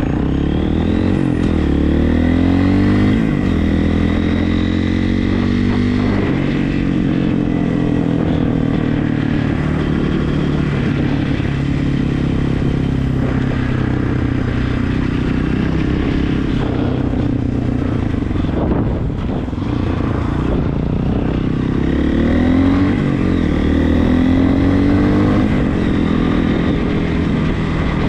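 Regulmoto TE enduro motorcycle's single-cylinder engine running under way. Its pitch rises as it accelerates near the start and again about 22 seconds in, and holds steadier in between.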